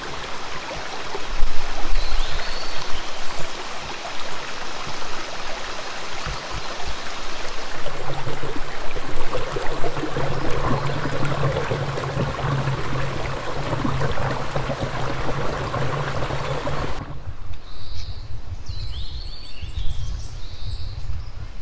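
Steady rushing of flowing water, like a stream, with a low steady hum joining about 8 seconds in. About 17 seconds in it cuts abruptly to a quieter low rumble with a few short, high chirps.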